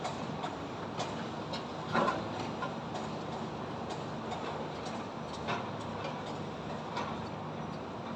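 Building construction site din: a steady low machinery and traffic hum with irregular sharp knocks and taps, the loudest about two seconds in.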